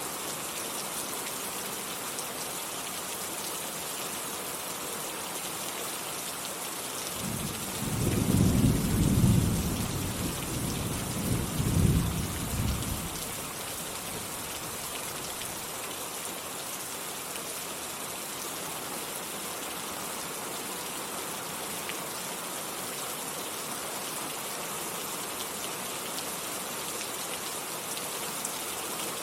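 Steady heavy rain falling, with a roll of thunder about seven seconds in that rumbles for around six seconds, peaking twice, before the rain carries on alone.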